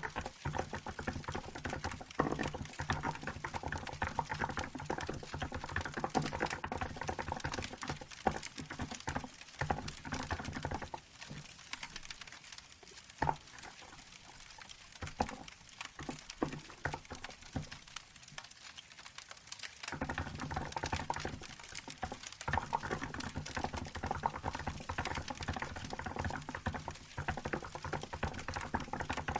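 Fast typing on a Hansung GK868B mechanical keyboard with milk keycaps, a dense patter of key clicks. About a third of the way in the typing slows to scattered keystrokes, then picks up again at full speed near two-thirds through.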